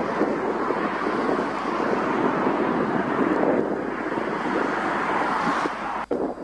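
Jet engine noise from a departing Airbus A330-200, a steady rushing roar mixed with wind on the microphone. A brief click and dip in level come near the end.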